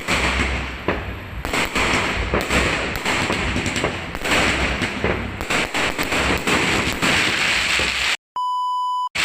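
Fireworks going off in a dense run of bangs and crackling. Near the end the noise cuts out for about a second of steady electronic beep tone.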